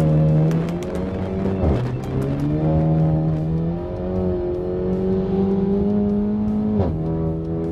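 Tuned Renault Mégane 4 RS Trophy's turbocharged 1.8-litre four-cylinder pulling hard under full acceleration. The engine note climbs, then drops sharply twice at quick dual-clutch upshifts, about two seconds in and near the end. A few sharp exhaust cracks come in the first second.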